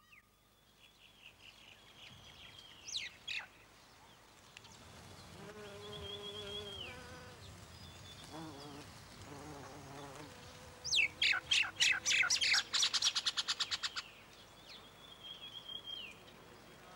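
Wild birds singing: high whistled notes and short chirps, with a few lower calls in the middle, then a loud, fast trill of rapidly repeated notes lasting about three seconds.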